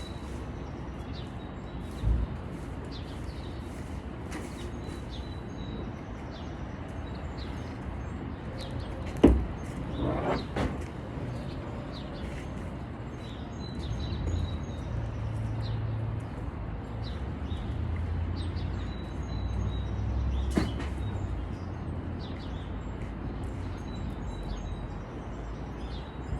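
Birds chirping in the background, with a single sharp knock about nine seconds in and a low rumble through the middle of the second half.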